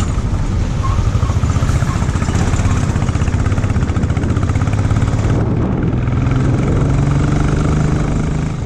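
Motorcycle engine running steadily while the bike is ridden, its low drone continuous under a steady rush of road noise.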